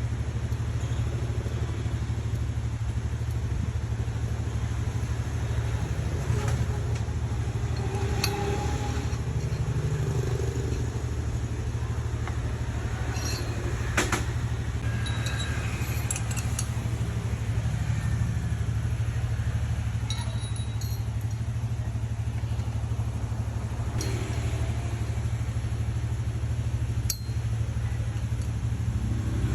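A steady low mechanical hum at an even level, with a few sharp clicks and clinks scattered through it.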